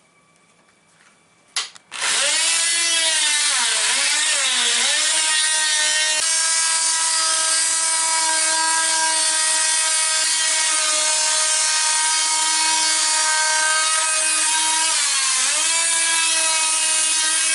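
A handheld power tool running and cutting into wood: a steady high whine that starts about two seconds in, sags in pitch a few times as the tool bogs under load, and runs on to the end.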